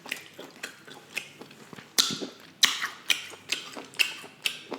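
Close-miked chewing of lobster tail meat: wet mouth clicks and smacks, about two a second.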